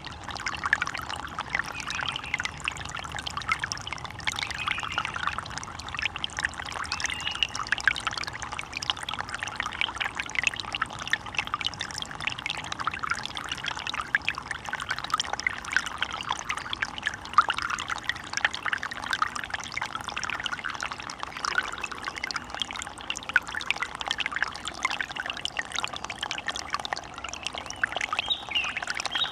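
Water in a forest stream flowing steadily, a dense, even trickling babble.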